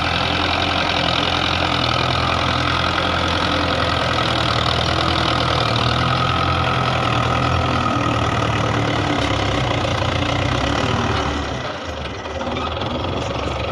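Belarus 510 tractor's diesel engine running steadily, then easing back in level about eleven seconds in.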